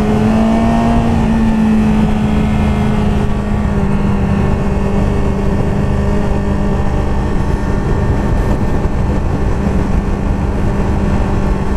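Sport motorcycle engine running at steady revs, rising slightly in pitch in the first second or two, over a steady rush of wind noise.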